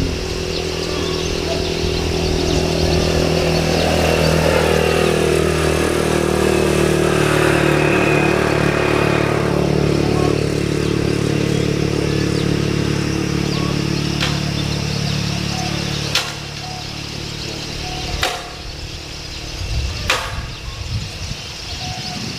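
A vehicle engine running steadily, with a tone that falls in pitch between about four and ten seconds in, stopping about sixteen seconds in. A few sharp clicks follow.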